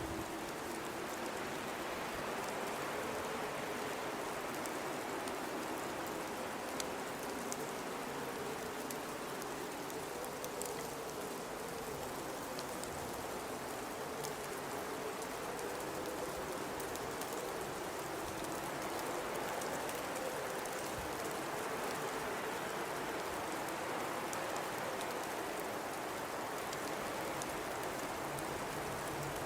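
Blizzard ambience: a steady rushing hiss of wind-driven snow with a low wind howl that wavers slowly in pitch.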